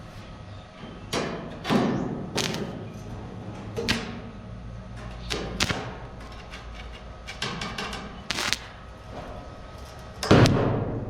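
A series of irregular knocks and thuds, roughly a second or more apart, some with a short ring after them; the loudest comes near the end.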